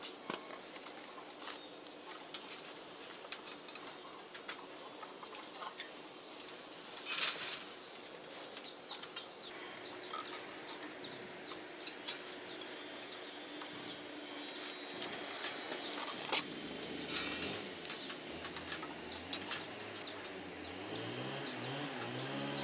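Outdoor rural background with a small bird giving a long run of quick, short, high chirps from about a third of the way in, over steady background noise and a few sharp knocks. A low, wavering pitched sound comes in near the end.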